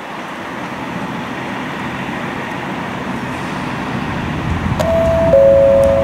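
Diesel train engine running and rumbling louder, then a two-tone train horn sounding near the end, a higher note followed about half a second later by a lower one held over it.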